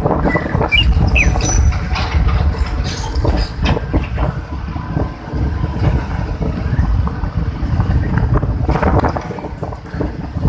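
Strong wind buffeting the microphone in a continuous low rumble, over the wash of heavy waves on the beach, with louder surges about three seconds in and again near nine seconds.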